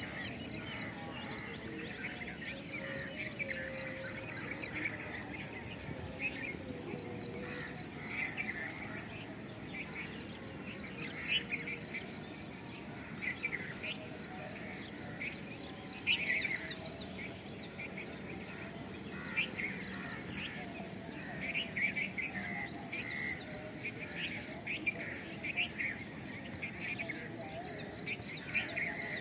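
Many birds chirping and calling over and over, short overlapping calls throughout, over a steady low background hum.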